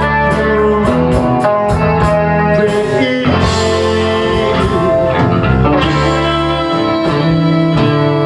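Live rock band playing a slow, mellow song: guitar chords ringing over a sustained low bass line, with a few cymbal strokes near the start.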